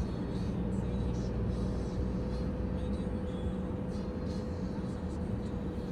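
Mercedes-Benz C300 (W205) driving at steady speed: an even low rumble of engine and road noise with a steady hum.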